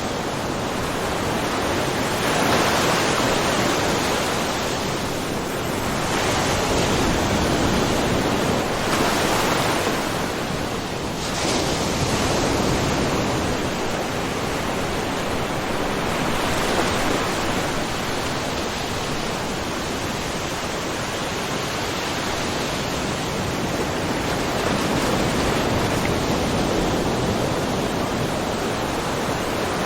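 Small ocean waves splashing and washing in a rocky cove, a continuous hiss of water with gentle swells every few seconds.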